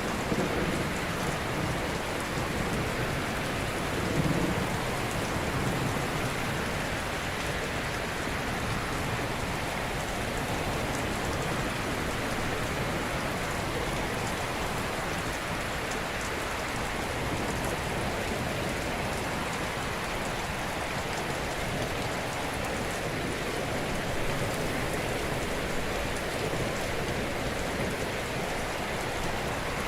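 Steady, dense rushing of water, with low rumbles about a second and four seconds in.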